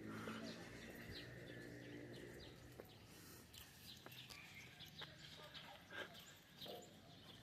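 Faint, scattered chirps of small birds, with a low steady hum of background noise underneath.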